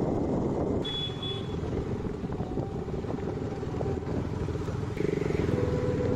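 Motorcycle engine running under way, with road and wind noise. About five seconds in it gets louder and a steadier engine note comes in, as if the rider opens the throttle.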